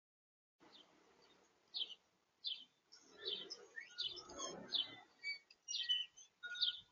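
Small birds at a feeder giving a string of short, high chirps, about a dozen of them, with a low rustle between the chirps near the middle.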